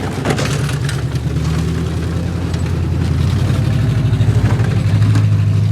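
A vehicle engine running steadily with a low, even drone, growing gradually louder.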